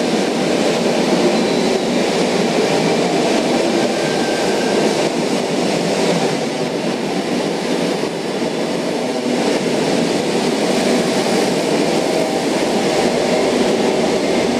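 Tangara electric train (sets T95 and T15) pulling out of the platform, running loud and steady.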